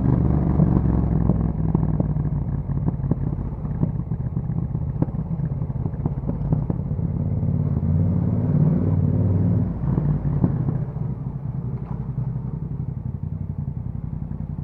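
Yamaha MT-07's parallel-twin engine running through an Akrapovič exhaust at low revs, with a scatter of sharp clicks and crackles over the note. About ten seconds in it settles lower and quieter.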